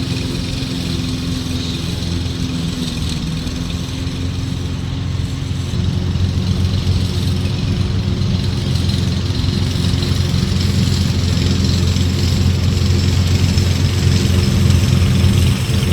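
Toro Smart Stow self-propelled gas push mower's engine running steadily, getting a little louder about six seconds in and again near the end.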